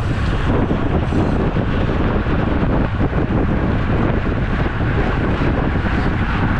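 Steady, loud wind noise rushing over the microphone of a camera on a moving road bike.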